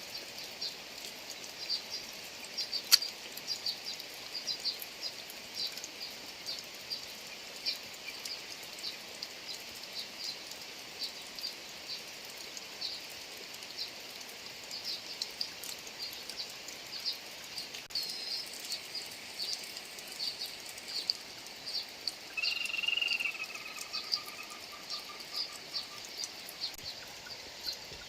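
Rice-field ambience: many short, high chirps from small animals, a few a second, over a faint hiss. A single sharp click comes about 3 seconds in, and a longer, wavering call sounds for about a second and a half about 22 seconds in.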